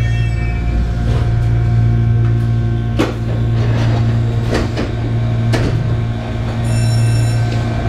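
Shizuoka Railway 1000 series electric train running slowly from the driver's cab, with a steady low hum. Wheels knock over rail joints or points about three seconds in and twice more a little later, and a short high-pitched whine comes near the end.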